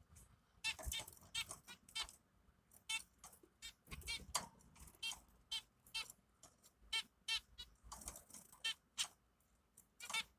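Newly hatched baby birds cheeping: many short, high-pitched peeps, about two or three a second, in an irregular run.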